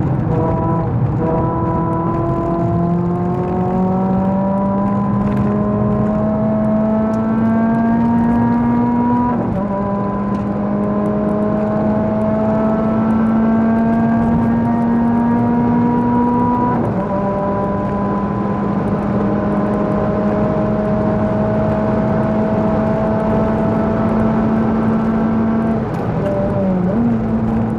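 Renault Clio Sport 197's two-litre four-cylinder engine, breathing through a Supersprint race exhaust, pulling hard under full throttle: the note climbs, drops at two upshifts about nine and seventeen seconds in, climbs slowly again in the higher gear, then dips as the throttle comes off near the end. Heard from inside the cabin.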